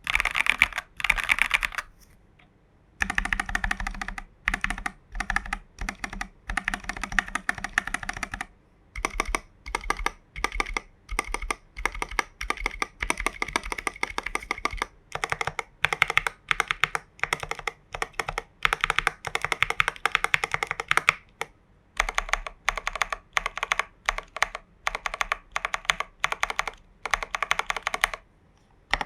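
Custom mechanical keyboard, a Hades v1.3 kit fitted with Prevail Epsilon switches, Durock v2 stabilizers and Geekark BOW keycaps, being typed on in fast continuous runs of key strokes. There is a pause of about a second roughly two seconds in and a few brief breaks later.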